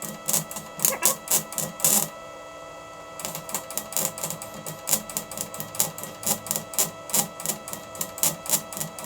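MIG wire welder laying short stitch welds, each trigger pull a brief burst of arc crackle at about two to three a second, with a pause of about a second near the start. The welds are being run cold on purpose.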